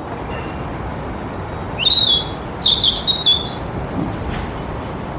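House sparrows chirping: a cluster of short, high chirps about two to three seconds in, over a steady background hiss.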